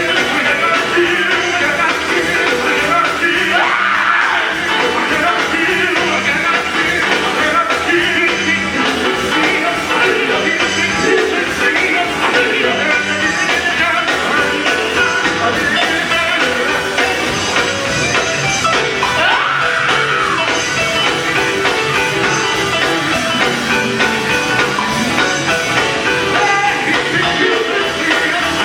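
Gospel vocal group singing with instrumental accompaniment in a live performance.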